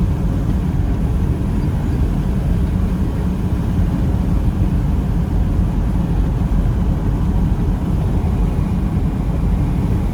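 1999 Toyota Land Cruiser 100 Series Amazon's 4.2-litre straight-six turbo diesel running, a steady low rumble without breaks.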